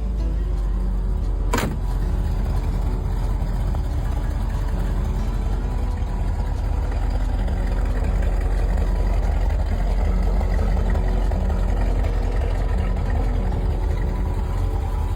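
Car V8 engine running steadily with a deep, even rumble, likely the 1971 Chevrolet Corvette's. There is one sharp click about a second and a half in.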